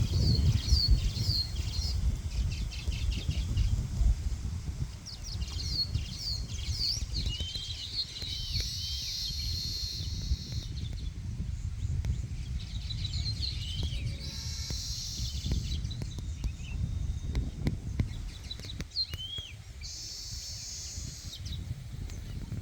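Small birds chirping and calling in quick, repeated short notes, with a few denser buzzy stretches, over a steady low rumble of wind on the microphone.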